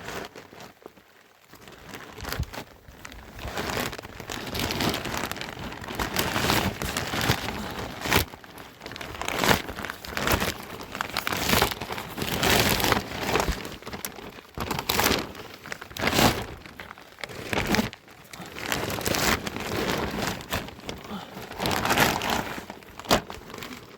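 Plastic sheeting crinkling and rustling in repeated bursts of a second or two as it is handled and fitted.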